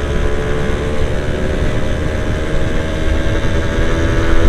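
Yamaha F1ZR's 110 cc single-cylinder two-stroke engine running at a steady, even speed, recorded close up through an external mic.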